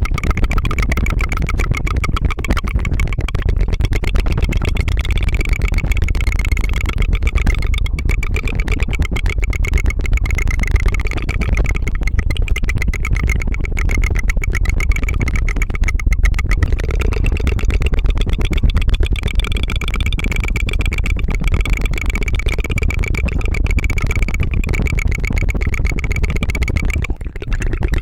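Rapid tongue fluttering close to the microphone: a continuous, rattling trill like a helicopter's 'tu tu tu', with one brief break near the end.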